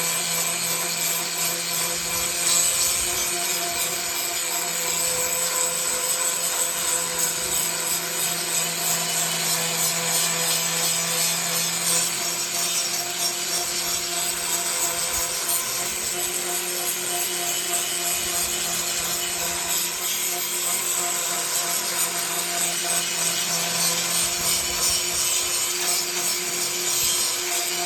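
Angle grinder with a green abrasive grinding wheel grinding down thick arc-weld lumps on a steel sheet. A continuous grinding noise with the motor's steady hum underneath, holding even under load.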